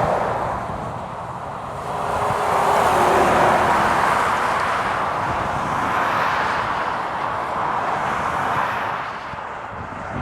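Trucks and other traffic passing on a wet road: rushing tyre noise swells and fades as several vehicles go by one after another, with a faint falling engine note a couple of seconds in.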